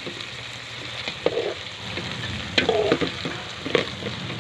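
Meat and onions sizzling steadily as they fry in an aluminium pot, with a metal spoon knocking and scraping against the pot a few times.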